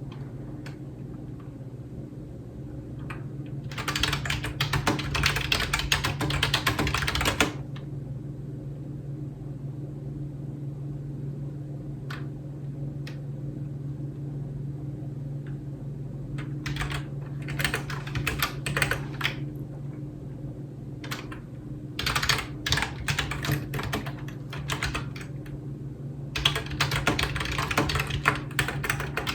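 Typing on a computer keyboard in quick bursts of clacking keystrokes, with pauses and stray single key presses between them. A steady low hum runs underneath.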